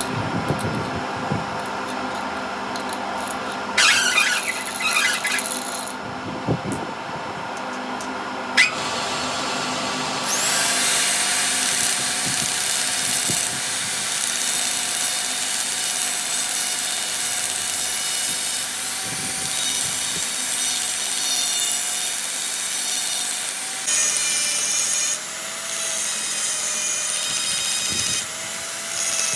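A power tool working metal: a few seconds of scraping and a sharp knock, then from about ten seconds in a loud, steady machine run with a high whine.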